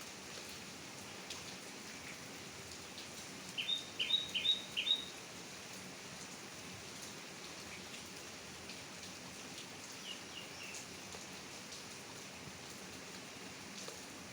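Steady rain falling, with scattered drops ticking through the patter. A bird calls four short, quick chirps about four seconds in, the loudest sound here, and gives three fainter short notes around ten seconds in.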